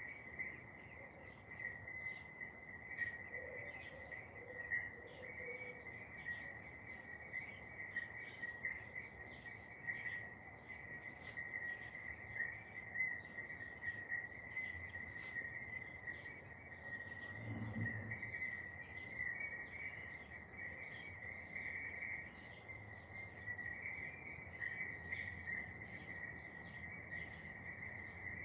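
Steady insect trilling held at one pitch, with many short bird chirps scattered over it. A brief low thump about 18 seconds in.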